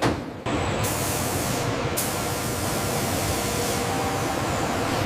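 HVLP paint spray gun spraying with a steady hiss of compressed air and paint, starting abruptly about half a second in after a brief click.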